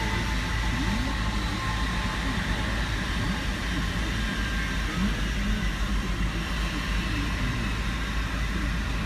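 Steady airport apron machinery noise: a continuous low engine rumble under a broad hiss, with a faint steady high whine.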